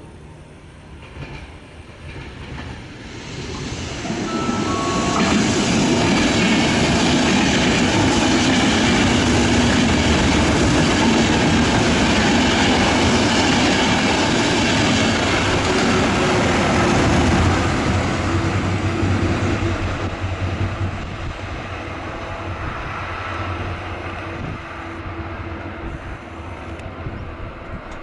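An Intercity passenger train passing close by on the rails. The wheel rumble and clatter build over the first few seconds, stay loud for about a dozen seconds while the coaches go by, then fade away near the end.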